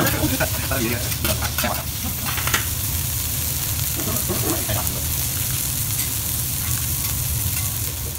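Food sizzling on a teppanyaki steel griddle, with metal spatulas scraping and clacking against the plate in the first couple of seconds as fried rice is stirred, then an even sizzle as cubes of wagyu beef sear. A steady low hum runs underneath.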